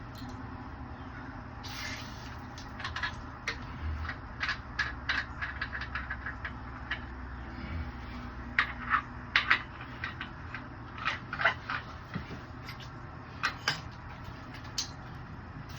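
Irregular clicks and knocks of metal fittings and tools being handled while a backflow test kit's hoses are moved and connected, over a steady low hum.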